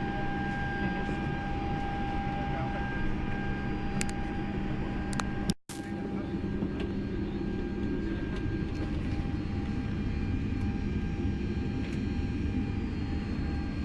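Steady mechanical hum holding several constant tones, with faint voices beneath; the sound drops out completely for a split second about halfway through.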